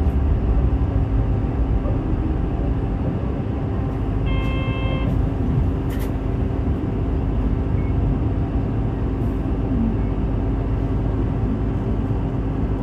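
Route bus running on the road: steady engine and road noise heard from inside. About four and a half seconds in, a short horn-like tone sounds once, followed by a sharp click.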